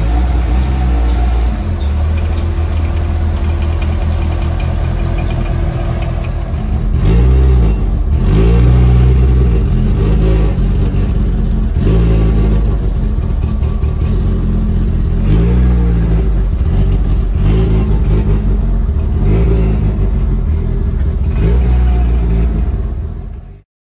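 Mitsubishi Lancer Evolution VII's tuned, turbocharged 4G63T four-cylinder engine, loud. It runs steadily for the first several seconds, then is revved repeatedly, the pitch rising and falling about eight times, before the sound cuts off suddenly near the end.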